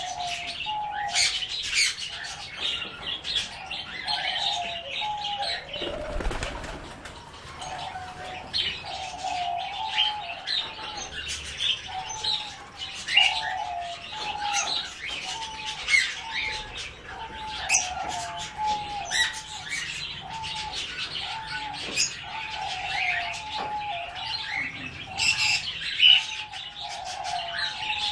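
Kept birds chirping and calling together, with many short high chirps over a lower call repeated about once a second. A brief burst of rustling noise comes about six seconds in.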